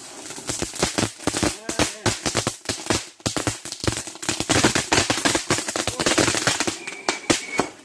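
A string of firecrackers going off in a rapid, irregular chain of sharp bangs and crackles that keeps going for several seconds.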